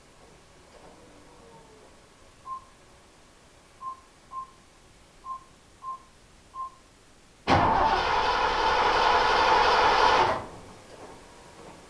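Six short electronic beeps, then about three seconds of a 1959 Ford F100's starter cranking the engine, which stops suddenly without the engine catching.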